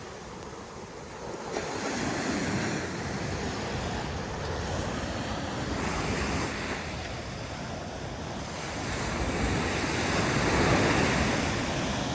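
Ocean surf breaking and washing up the beach, swelling in roughly every four to five seconds, the loudest swell near the end. Wind buffets the microphone underneath.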